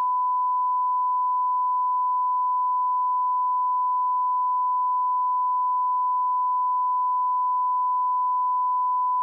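Steady 1 kHz sine test tone, one pure unbroken pitch at an even level, standing in for the bus ride sound, which cuts off just before.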